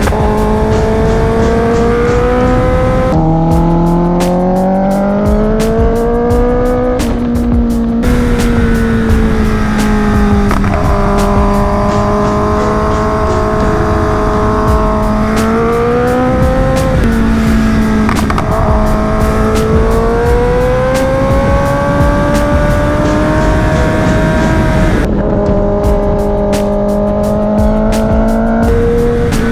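Sportbike engine under way, its pitch climbing and easing with the throttle, with a sudden drop about three seconds in as it shifts up, over a bed of wind and road noise.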